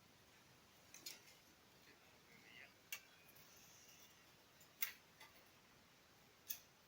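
Near silence, broken by four or five faint sharp clicks a second or two apart.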